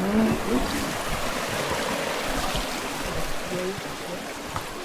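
Steady rushing of falling water, an even hiss. Faint voices come in briefly near the start and again past the middle.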